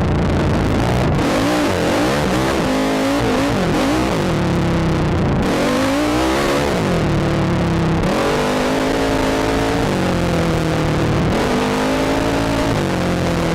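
ATV engine revving up and down, its pitch climbing and dropping several times as the throttle is opened and closed. A steady rushing noise, heard through a helmet-mounted camera, runs underneath.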